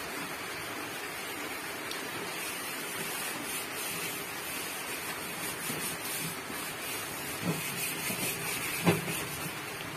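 Steady hiss of rain falling, with two short knocks near the end as chicken pieces are set on the wire grill rack.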